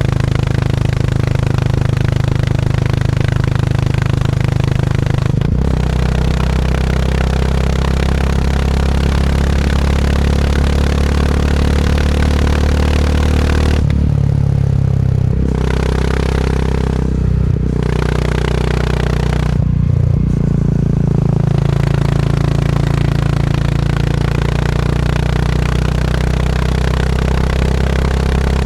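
Motorcycle engine pulling steadily while under way on the road. About halfway through, the throttle eases off and opens again several times, with the pitch stepping between gears.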